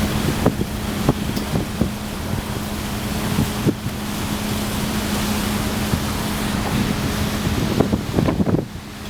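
Wind buffeting the microphone over a ferry's steady low engine hum, with gusts spiking now and then. The hum fades and the noise drops near the end.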